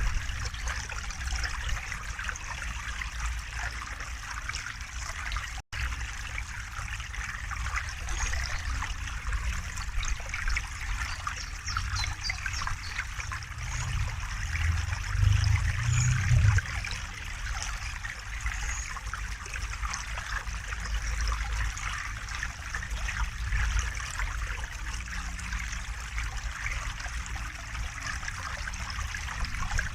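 River water flowing with a steady trickling, babbling sound over a low rumble that swells louder for a couple of seconds about halfway through. The sound drops out for an instant about six seconds in.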